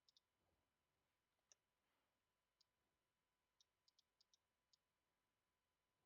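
Near silence, with about nine faint, scattered clicks from typing and clicking at a computer.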